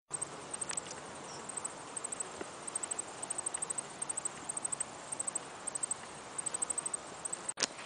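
Insects chirping steadily in short, high-pitched trills, two or three a second, over faint outdoor hiss; a single sharp click near the end.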